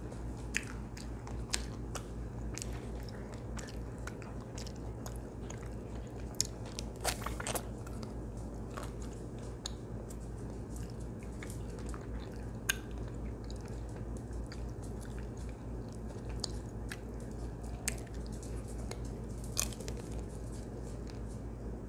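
A person chewing and eating close to a clip-on microphone: soft wet smacks and scattered mouth clicks, over a steady low hum.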